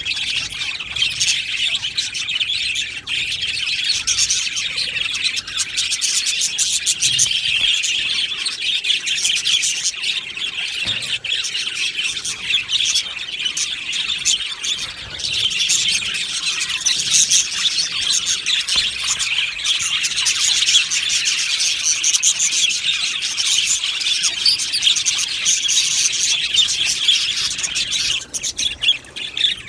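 A colony of budgerigars in an aviary chirping and chattering, many birds at once in a continuous, busy chorus with occasional squawks.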